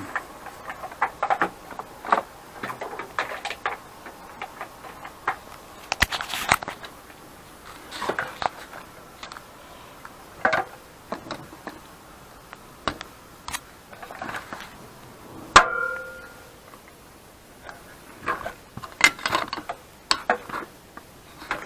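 Irregular clicks, taps and knocks from objects being handled, with one short ringing tone about two-thirds of the way through.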